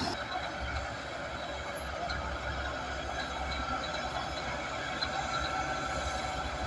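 Crawler bulldozer at work: a diesel engine running under a steady rumble, with the continuous clatter and squeak of its steel tracks.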